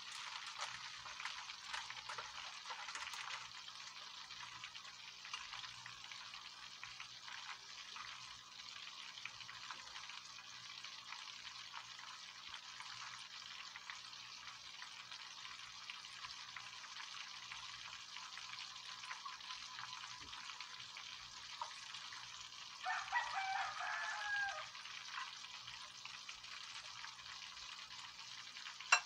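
Battered fish fillets deep-frying in a pan of hot oil, a steady sizzle and crackle of bubbling oil. About three-quarters of the way through, a brief pitched call from further off rises over the sizzle for a second or so.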